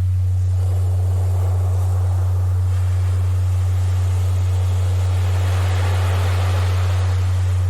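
A steady low pure tone, a Rife-frequency tone and the loudest sound, held unchanged over recorded ocean surf whose wash swells and fades, building up about six seconds in.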